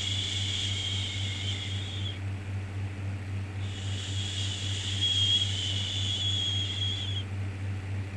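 A shushing "shhh" sound, repeated in long strokes. One stroke fades out about two seconds in, and another runs from about three and a half seconds to about seven. A steady low hum of background noise sits under it throughout.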